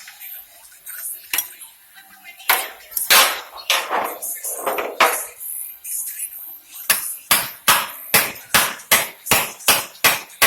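A hammer striking metal: a few scattered blows, then, past the middle, a quick steady run of about three blows a second. It comes while working to free a starter bolt that spins and will not come out.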